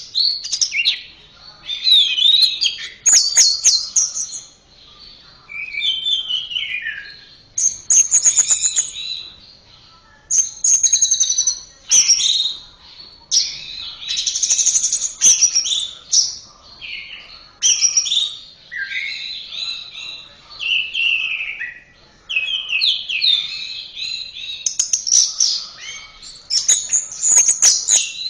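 Orange-headed thrush (anis merah) singing a long, varied song of short whistled phrases that glide up and down in pitch, with brief pauses between them. Now and then a quick dry rattle of clicks breaks in.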